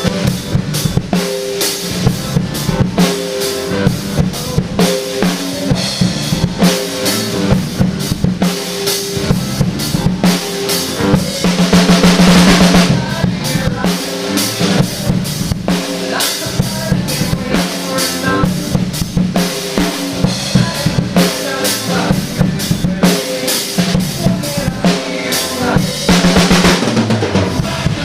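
DW Collectors Series drum kit played along with a recorded song: a steady groove of kick, snare and rimshots. Louder fills with cymbal wash come about 12 seconds in and again near the end, the second stepping down the toms.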